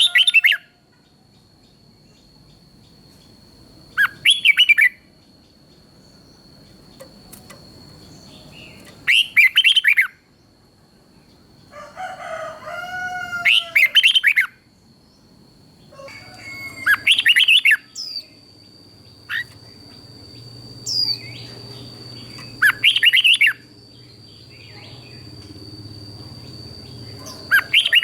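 Red-whiskered bulbul singing short, loud warbled phrases of about a second each, repeated every few seconds. A thin steady high-pitched tone runs underneath throughout.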